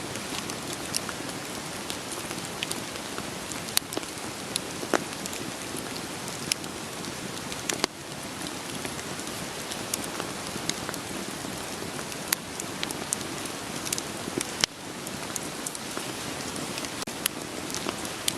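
Steady rain falling, with a wood fire crackling through it: firewood giving irregular sharp pops and snaps.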